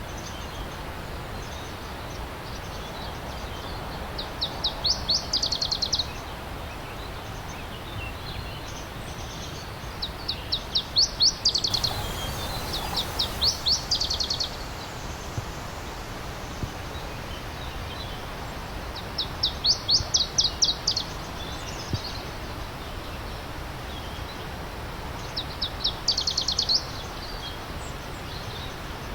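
A stream running with a steady rush, while a songbird sings short, fast trills of quick down-slurred notes, each about two seconds long, repeated every few seconds.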